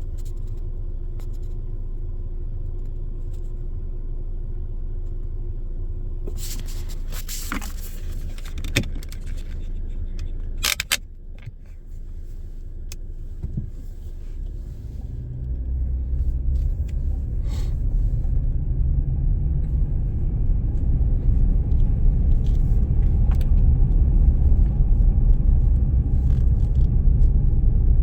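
Car cabin noise while driving on snowy roads: a steady low rumble of engine and tyres, with a cluster of sharp clicks and rattles about a third of the way in. The rumble grows louder through the second half.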